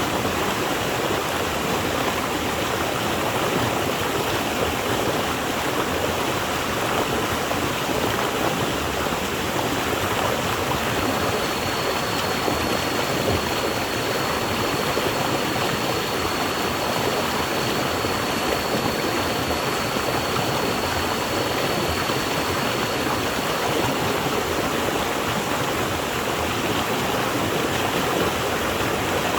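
Water flowing in a stream, a steady, even rush of water without breaks.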